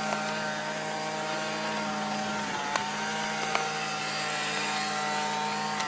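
A small engine running at a steady pitch, dipping briefly about two and a half seconds in, with a few light clicks over it.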